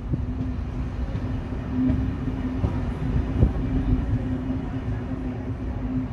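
Train at a station: a steady low rumble with a held hum. There is one sharp knock about three and a half seconds in.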